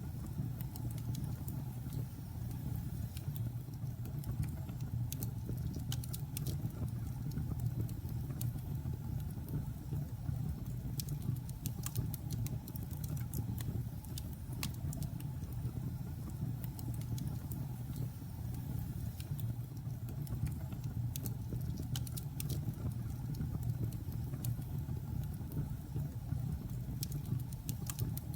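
Logs burning in a fireplace: a steady low rumble of the fire with scattered sharp crackles and pops at irregular intervals.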